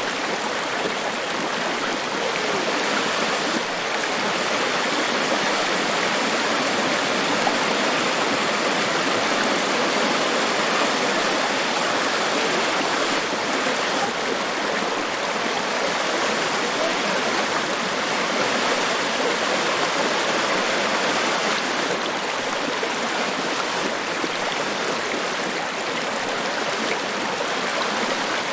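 Niagara Falls: the steady, unbroken rush of falling water, a dense even hiss with little deep rumble beneath it.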